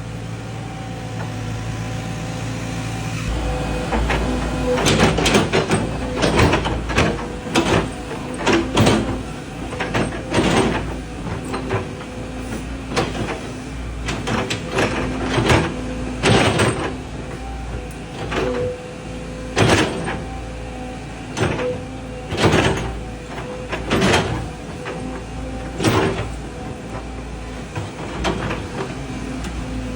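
Volvo excavator's diesel engine running steadily on a test run after a hydraulic pump replacement, with a string of short, loud surges every second or two.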